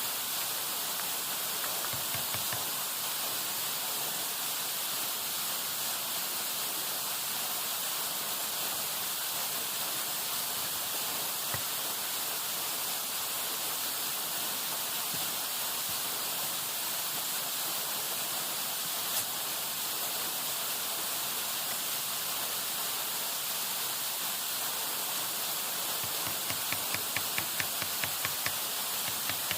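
Steady rushing hiss of water, as from heavy rain or a fast river. Near the end, a quick run of light taps, about four a second, lasts for roughly two seconds.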